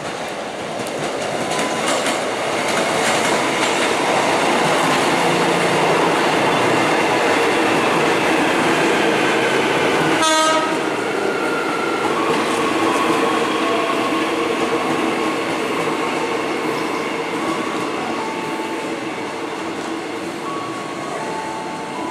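Electric train running through the station, its noise swelling over the first few seconds and slowly fading, with a brief horn toot about ten seconds in.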